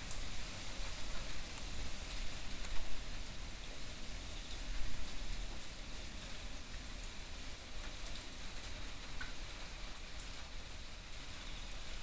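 Typhoon rain falling steadily with gusting wind, a constant hiss under a low wind rumble, with scattered drop ticks and a couple of louder gusts about three and five seconds in.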